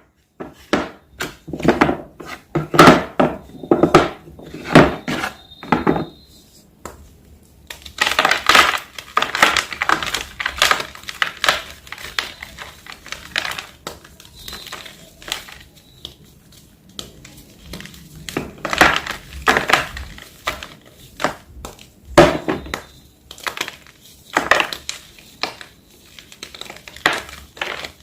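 Plain white gym chalk being crushed: a series of irregular dry crunches and crackles, a few loud ones close together with quieter crumbling between them.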